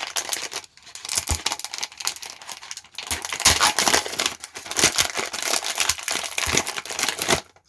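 A plastic blind-bag packet crinkling and crackling as it is handled and torn open by hand, in two main stretches with short pauses about a second in and around three seconds in.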